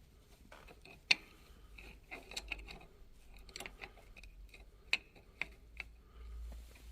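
Irregular light clicks and taps of tools and metal parts being handled while working on a motorcycle's front forks, the sharpest about a second in.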